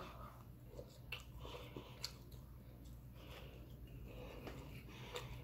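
Faint, close-miked eating sounds: a person chewing a bite of fried fish, with scattered soft wet mouth clicks.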